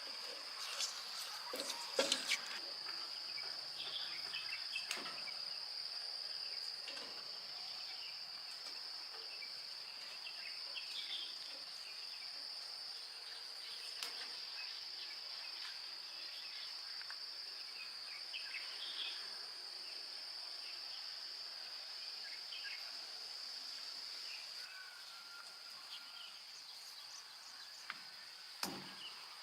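Insects trilling steadily on one high note, fading somewhat near the end, with a few scattered clicks and knocks.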